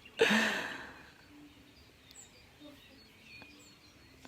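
Quiet outdoor background with faint bird chirps, broken about a quarter second in by a brief burst of noise that fades within a second.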